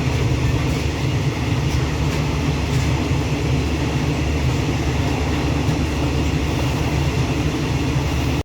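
Sleeper train running along the track, a steady low rumble of wheels and carriage heard from on board.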